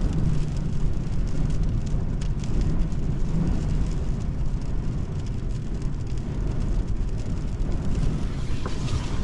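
Strong wind buffeting a parked Toyota Surf, heard from inside the cab as a steady low rumble, with rain pattering on the roof.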